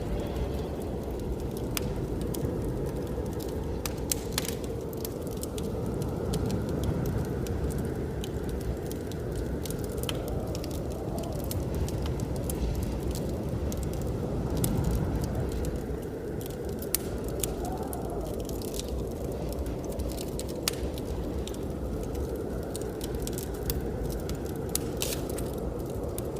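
Wood fire crackling with frequent sharp pops, over a steady low rush of blizzard wind.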